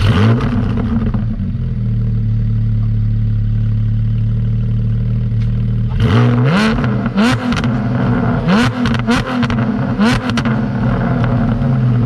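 2020 Porsche 718 Cayman GT4's flat-six, breathing through Soul competition headers and a resonated Soul race exhaust, flares briefly, then idles steadily and loudly. About halfway through it is blipped quickly several times in a row, each rev rising and falling sharply, before it drops back to idle.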